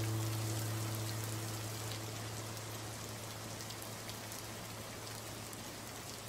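Steady rain-like patter with scattered faint drips. Over it, a low held note fades away in the first couple of seconds.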